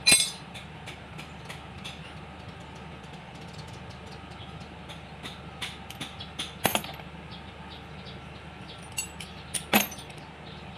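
Metal clinks and knocks of tools and parts being handled during engine work. Three louder strikes, one at the start, one about two-thirds through and one near the end, with lighter ticks between them over a steady low hum.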